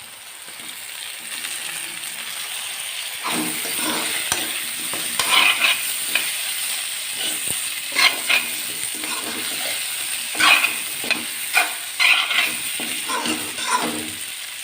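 Pieces of pre-boiled pork frying in hot oil with onions, the sizzling growing louder over the first few seconds, while a spatula stirs and scrapes the pan in repeated strokes.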